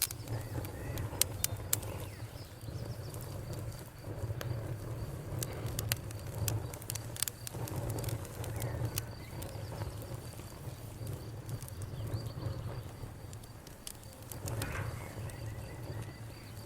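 Campfire crackling, with scattered sharp pops and snaps over a steady low rumble, and birds calling faintly in the background.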